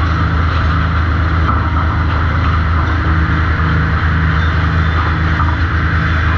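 Sawmill machinery at a trim saw running steadily: a constant low motor hum with a higher rushing noise above it, and no distinct cut.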